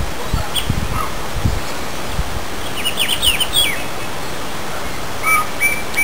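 Wild birds calling: a quick run of falling chirps about halfway through, then a short clear note repeated about three times a second near the end. Under them a steady outdoor hiss, with a few low thumps in the first second and a half.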